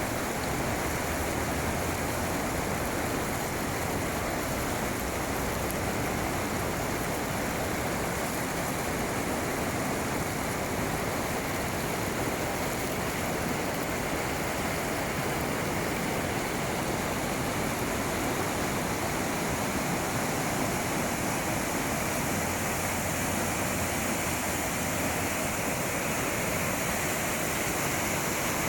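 Flowing water rushing steadily, an even noise that does not change.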